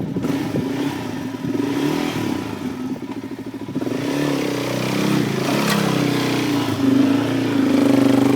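Dirt bike engine revving, its pitch repeatedly rising and falling under throttle while climbing over rock, with a sharp knock about six seconds in.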